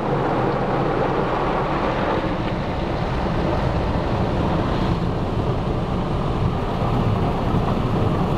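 Automatic car wash machinery running, a steady rushing noise of water spray and equipment heard from inside the car's cabin.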